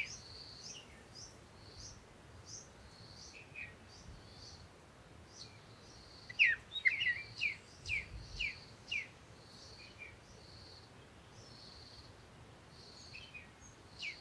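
Small birds chirping: short high chirps repeat about twice a second, and a louder run of quick down-slurred notes comes in about halfway through.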